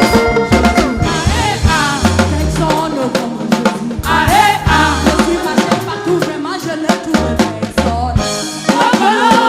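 Live gospel praise music: a choir and lead singer singing over a full drum kit with bass drum and snare keeping a steady beat.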